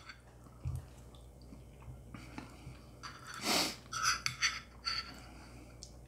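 A man chewing a mouthful of chicken curry and rice, with a short sharp breath about halfway through. A few light clinks, like cutlery on a plate, follow just after.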